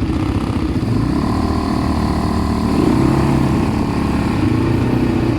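ATV engine running while the quad is ridden, steady throughout and getting a little louder about three seconds in.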